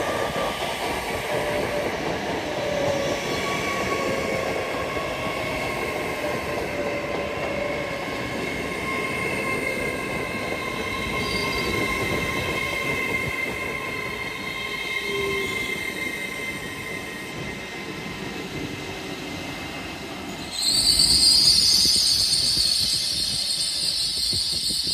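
LNER Class 801 Azuma electric train pulling into the platform, its motors whining in steady tones over the running noise. About twenty seconds in, a louder high-pitched brake squeal starts as it slows to a stop.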